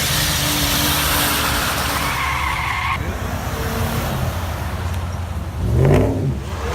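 Car tyres screeching over a running engine, the screech cutting off about three seconds in. Near the end a car engine revs up sharply and loudly.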